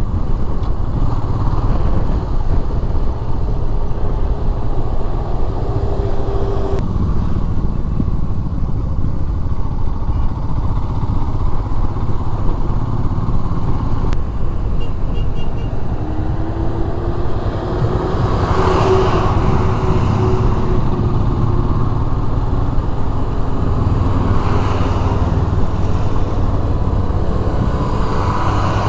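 Motorcycle engine running while riding, mixed with steady road and wind noise.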